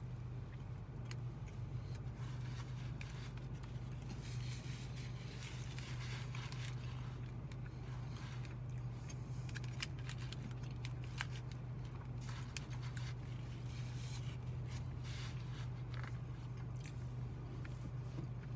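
Chewing a mouthful of pulled pork sandwich, with small clicks and crinkles from its aluminium foil wrapper, over a steady low hum inside a car.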